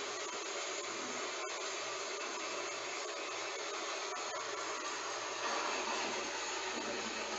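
Heavy rain falling steadily, an even hiss with a few faint ticks of drops, swelling slightly about five and a half seconds in.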